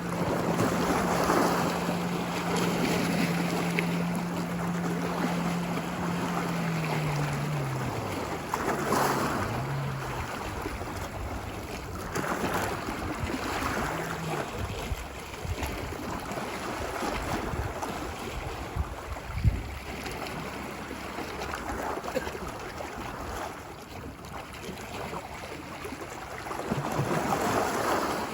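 Ocean waves washing ashore in repeated swells, with a low hum of a motorboat engine that drops in pitch and fades away about a quarter of the way in. A single short thump comes about two-thirds of the way through.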